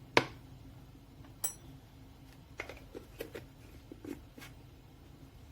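Kitchen utensils handled at a mixing bowl while ground cinnamon is spooned in: one sharp knock just after the start, a short metallic clink with a brief ringing about a second and a half in, then a run of soft taps and clicks.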